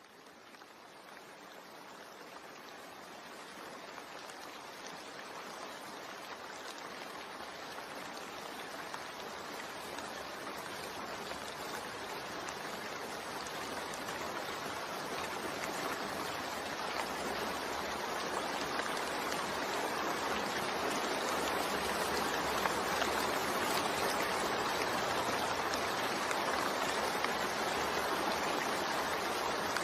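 Steady rain falling, a continuous even hiss that fades in gradually from faint over the first fifteen seconds or so and then holds.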